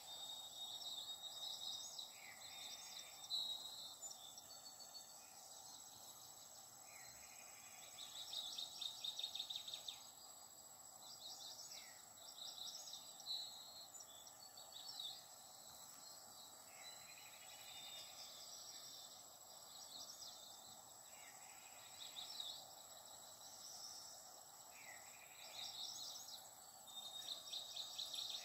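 Faint birdsong: short trilled chirping phrases repeating every couple of seconds, over a steady background hiss with a thin high whine.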